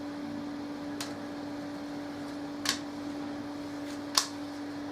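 A spirit level knocking lightly three times as it is set down and shifted on top of a wooden anvil stump to check it for flat, with the last knock the loudest, over a steady hum.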